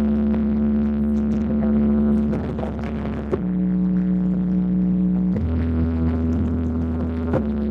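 Electronic DJ music played loud through a large sound-horeg sound system. Long held deep bass and synth chords shift to a new chord about every two seconds, with a few sharp clicks.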